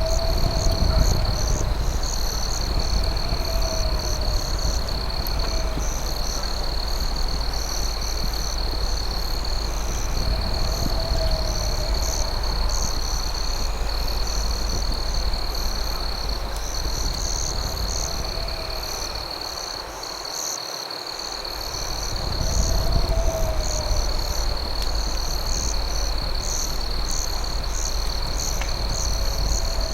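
Night insect chorus of crickets: one steady high trill with a faster, pulsing chirping above it. A wavering lower call repeats every few seconds over a steady low rumble, and the rumble drops away for about a second about two-thirds of the way through.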